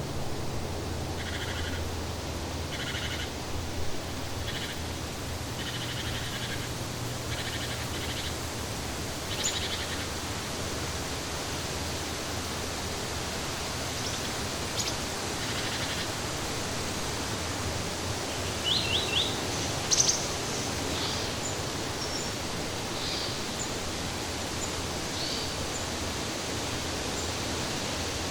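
Birds calling over a steady rushing noise. A short call repeats about once a second for the first eight seconds, then scattered higher chirps follow, with a quick series and one sharp chirp past the middle.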